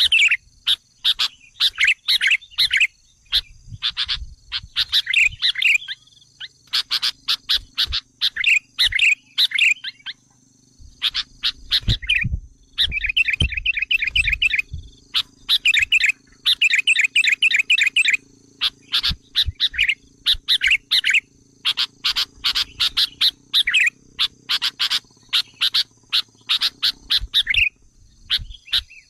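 Sooty-headed bulbuls (kutilang) giving agitated, rapid chattering calls, the kind used as a lure to rile wild bulbuls. The calls come in bursts a second or two long, with short pauses between them and a longer break about ten seconds in.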